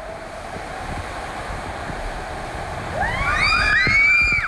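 Steady rushing, splashing water, with several high children's squeals overlapping from about three seconds in, louder than the water.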